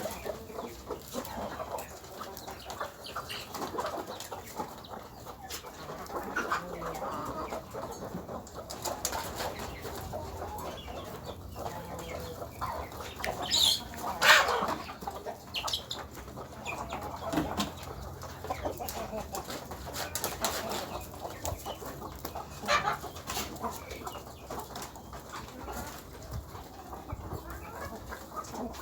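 Chickens clucking while they feed, with many short taps and rustles, and one louder call about halfway through.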